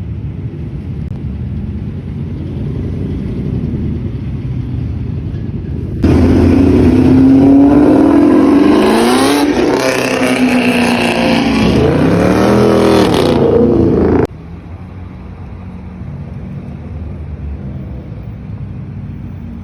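Car engine running with a low steady rumble. It cuts abruptly to a louder passage of the engine being revved, its pitch rising and falling several times. Then it cuts back to a quieter steady rumble near the end.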